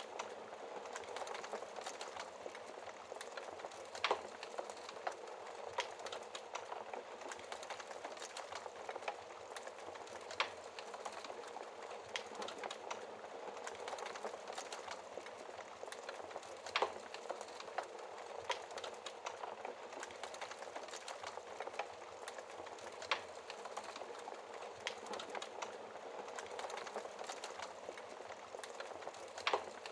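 Wood fire burning in a fireplace, a steady hiss full of small crackles, with a louder sharp pop about every six seconds.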